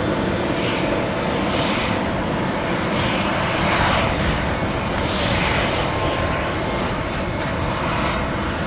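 Boeing 767 freighter's jet engines running steadily at low taxi power, an even rushing noise with no change in thrust.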